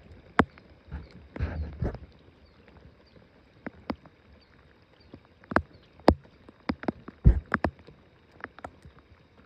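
Irregular sharp knocks and clicks of fishing gear and bodies moving in a small boat, with a short rustle about a second and a half in; the loudest knock comes about seven seconds in.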